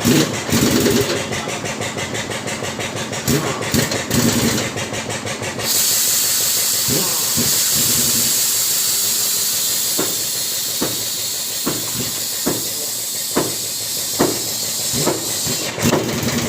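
A loud, steady hiss starts suddenly about six seconds in and runs on, slowly fading, with scattered short knocks. Before it, a mix of mechanical noise and what may be voices.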